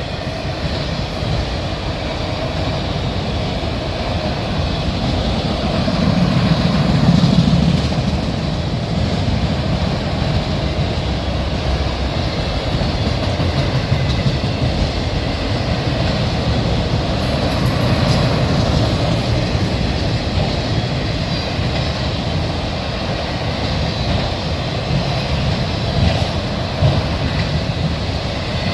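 Freight train of auto-rack cars rolling past, a steady noise of steel wheels on the rails, a little louder about six to eight seconds in.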